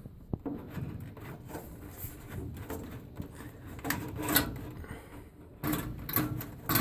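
Furnace air filter being forced out of its tight slot: the filter frame scrapes and bumps against the housing, with irregular rubbing and knocks, a louder scrape about four seconds in and a cluster of knocks near the end.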